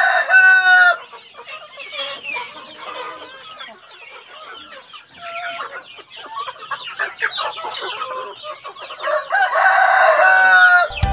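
A flock of young heritage-breed chickens clucking and chattering, with a rooster crowing at the very start and again about nine seconds in.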